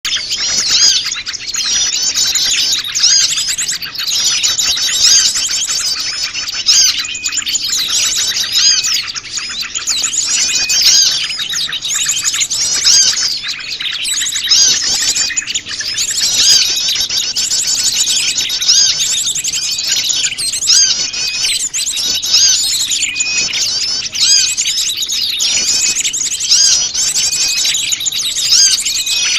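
A noisy, dense chorus of many small wild birds of mixed species chirping at once. Their high, quick calls overlap without a pause.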